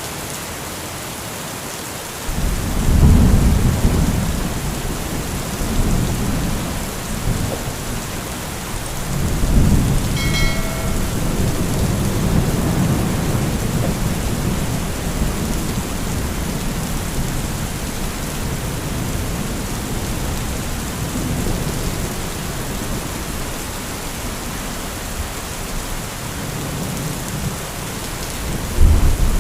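Heavy steady rain with rolling thunder. A long low rumble builds about two seconds in, another swells around ten seconds and rolls on, and a fresh loud crack of thunder comes near the end.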